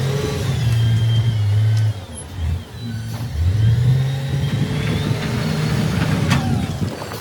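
Heavy earthmoving machine's engine running under load and revving: it holds a loud low note, dips briefly about two seconds in, then climbs again and carries on.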